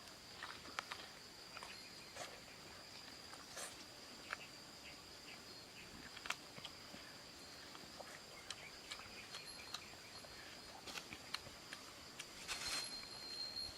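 Insects, crickets or similar, trilling in one steady high tone, with scattered light clicks and taps over it.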